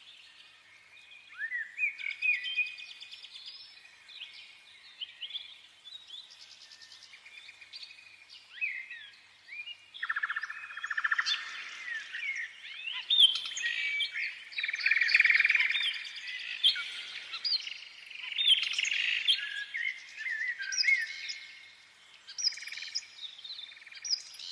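Small birds chirping and twittering, many short calls and trills overlapping, several birds at once; the chorus grows busier and louder partway through, then thins again near the end.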